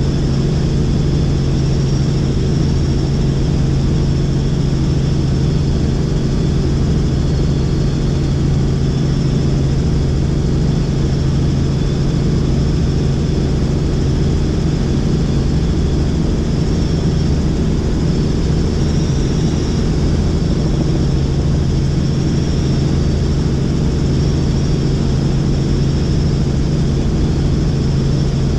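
Helicopter in flight: a loud, steady drone of its rotor and engine, even throughout, with a low hum over a constant rushing noise.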